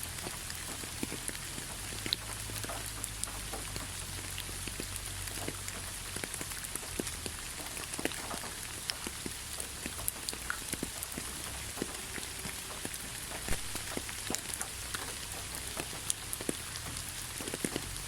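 Steady rainfall with individual raindrops ticking irregularly on a surface over an even hiss.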